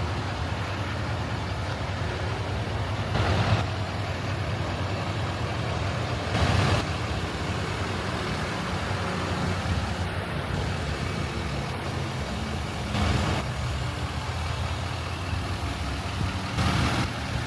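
Pickup truck engine idling with a steady low hum, broken four times by brief rushes of noise.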